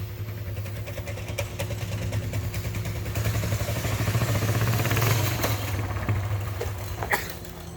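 Small gas engine of a chain-driven mini bike running as it is ridden, growing louder for a few seconds and then easing off. Near the end there is a short clatter and the engine sound drops away.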